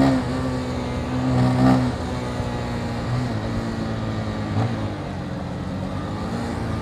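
Motorcycle engine running under way, its note holding steady and shifting in pitch a few times, with wind and road noise.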